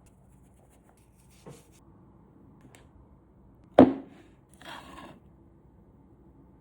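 One sharp knock a little under four seconds in, then a brief scraping sound; there is a faint click earlier.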